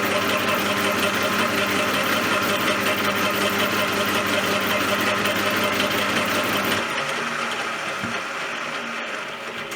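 CJM360 bench lathe running steadily, then switched off about seven seconds in, its sound fading away as the spindle coasts down.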